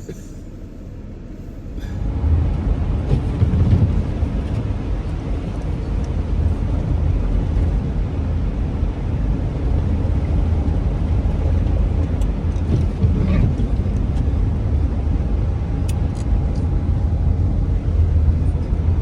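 Low road and engine rumble inside a moving vehicle's cabin. It grows louder about two seconds in, then holds steady.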